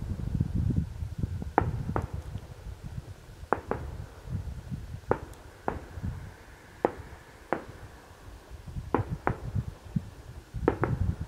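Distant aerial fireworks bursting: about a dozen sharp bangs and pops at uneven intervals over a low rumble.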